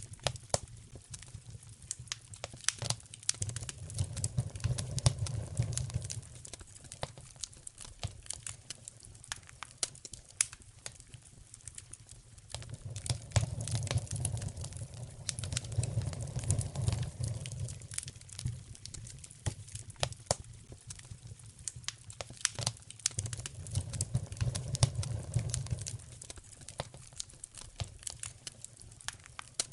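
Wood fire crackling and popping steadily with sharp snaps. A low rumble swells and fades three times.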